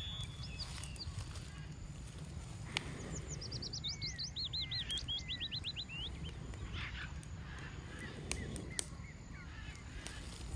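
A small songbird sings a rapid run of high whistled notes that falls steadily in pitch, about three seconds in, with a few scattered chirps after it. Underneath is a steady low wind rumble, and a few sharp clicks sound, one near the start and two close together later.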